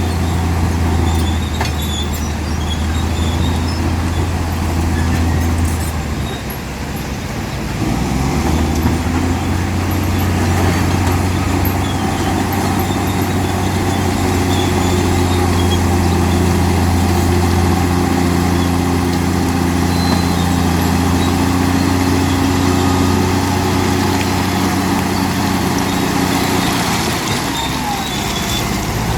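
Heavy diesel engine of earthmoving machinery running steadily under load, with a deep low hum that eases briefly about six seconds in and then picks up again.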